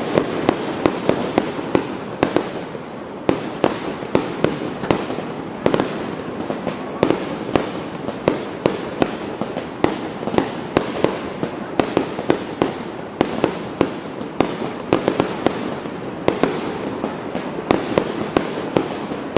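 Fireworks display: a rapid, continuous string of sharp bangs and shell bursts, several a second, over a steady crackling background.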